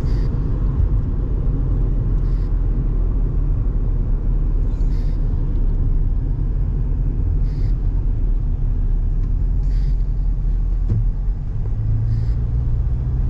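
Car road noise heard from inside the cabin while driving: a steady low rumble of tyres and engine, with faint ticks about every two and a half seconds.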